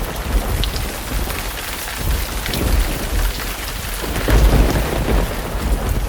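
Thunderstorm with heavy rain and gusting wind, a deep low rumble swelling and easing under the rain's hiss.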